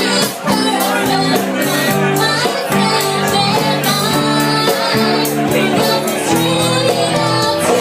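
Live band playing a song, with sustained chords and steady drum and cymbal hits.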